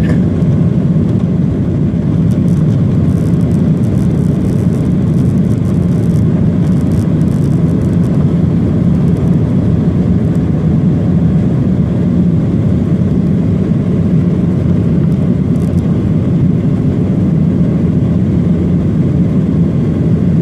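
Boeing 737-800 jet engines and airflow heard inside the cabin during takeoff, a steady low drone.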